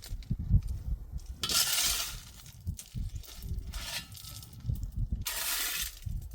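Small pebbles clattering and sliding in three bursts, the longest about a second and a half in and another near the end, with dull thuds in between.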